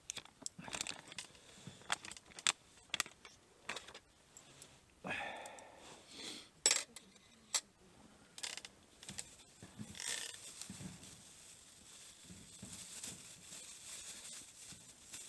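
Scattered clinks and knocks of small hard objects being handled, with a brief rustle about five seconds in.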